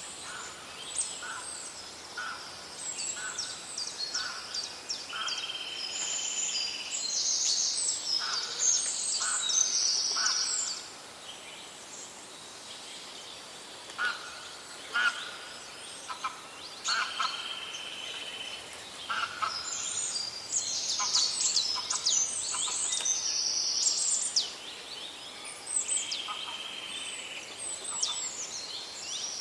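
Several wild forest birds singing together in a chorus of overlapping chirps, trills and whistled notes, over a faint steady background hiss. A held note about a second long comes back roughly every ten seconds.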